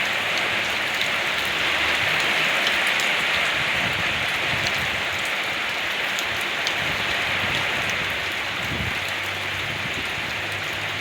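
Steady rain falling on surfaces, an even hiss with scattered drop ticks. A faint low hum comes in near the end.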